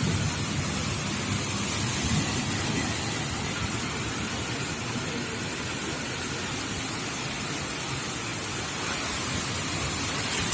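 Heavy thunderstorm downpour: rain pouring steadily, with a low rumble of thunder dying away near the start.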